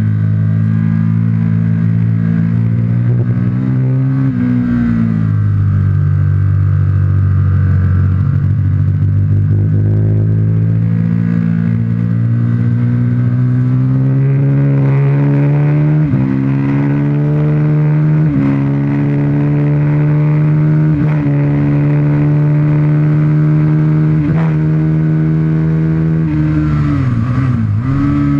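Aprilia RSV 1000 Factory's 998 cc V-twin engine heard from onboard, pulling hard around a race track. Its note drops a few seconds in, then climbs steadily with four short breaks in the second half, and dips sharply and recovers just before the end.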